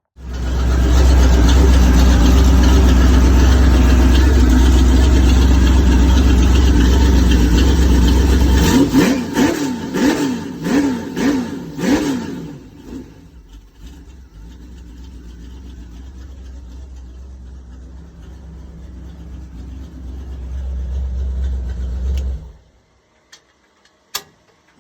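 Newly installed 307 V8 with 180-degree headers running loud and steady, then given a quick series of about six throttle blips from about nine seconds in. It settles to a quieter idle and shuts off abruptly a couple of seconds before the end.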